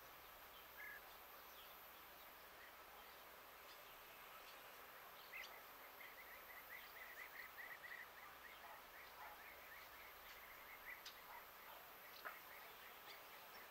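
Faint outdoor hiss, near silence. About a third of the way in, a small bird gives a rapid run of faint, evenly repeated chirps for about three seconds, and a few faint ticks follow.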